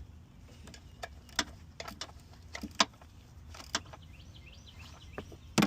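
Scattered, irregular clicks and light knocks of hand tools and metal parts during engine work, with a louder clatter near the end, over a low steady background hum.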